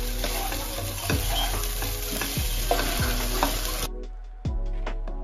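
Flattened rice with egg and onion sizzling in an oiled non-stick kadai over a low gas flame while a spatula stirs and scrapes it, with soft background music. The frying sound cuts off suddenly about four seconds in, leaving only the music.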